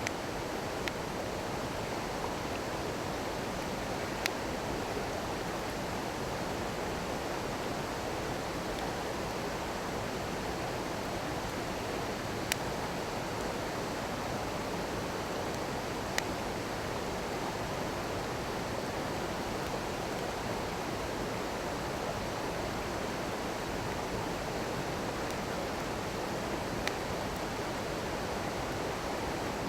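Steady rushing of a small stream, with a wood bonfire popping sharply a handful of times.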